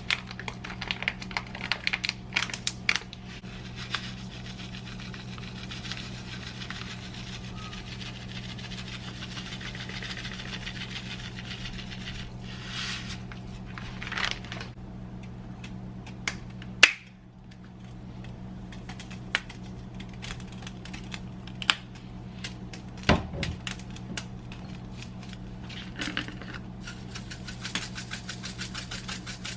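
Kitchen handling sounds: scattered clicks, taps and light rattles of items being moved about, over a steady low electrical hum. The hum drops out for a moment partway through, and there are a few louder knocks.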